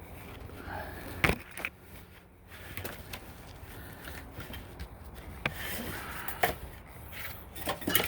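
Scattered knocks, taps and scraping from handling heavy-duty pet screening over a screen door frame, with a sharp knock about a second in and several more in the last few seconds.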